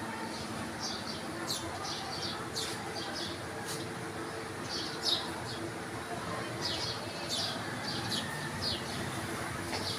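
Small birds chirping: short, high calls repeated irregularly throughout, over a faint steady low hum.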